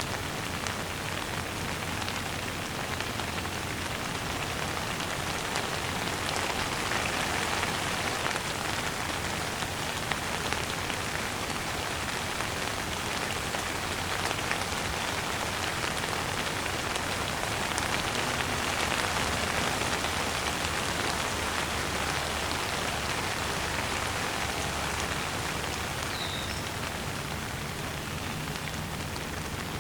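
Steady rain falling on a surface: a dense, even hiss of many drops, swelling a little now and then.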